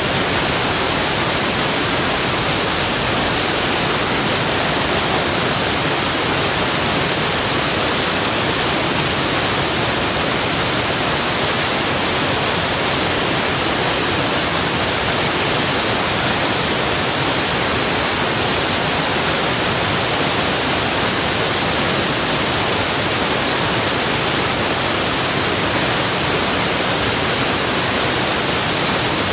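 Waterfall of rushing water making a steady, even hiss that never changes, heaviest in the high treble.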